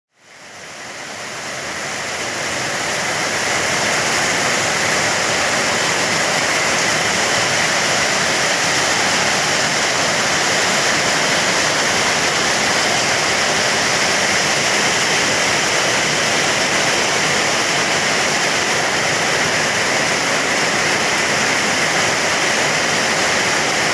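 Heavy rain on an uninsulated steel roof: a loud, dense, even patter with no letup. It fades in over the first few seconds and then holds steady.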